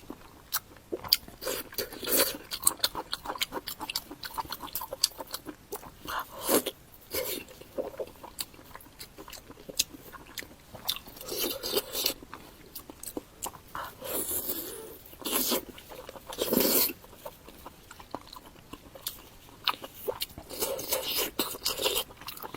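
Close-miked eating: many sharp crunches and wet mouth clicks as food is bitten and chewed, with a few longer stretches of crunchy chewing.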